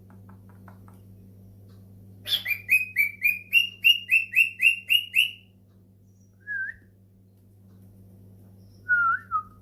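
Cockatiel calling: a fast run of about a dozen sharp whistled chirps, about three a second and creeping up in pitch, then a single short chirp and a brief wavering whistle near the end. A steady low hum runs underneath.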